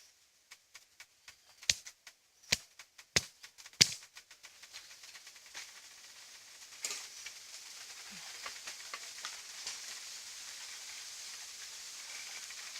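Dry twigs snapping as they are broken, with four loud sharp snaps in the first four seconds, followed by a steady crackly rustle of dry straw and leaves being handled while laying a campfire.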